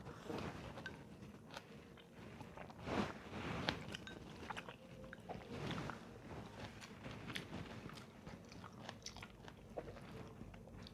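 A person chewing and biting into food close to the microphone: irregular wet smacks and sharp clicky crunches, with the loudest bites about three and four seconds in.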